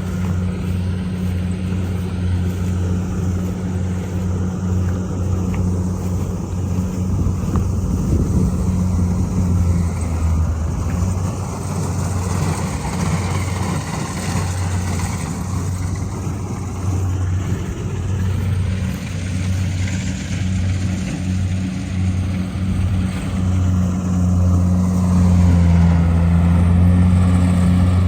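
A rice combine harvester's engine running steadily under load with a deep hum, growing a little louder near the end.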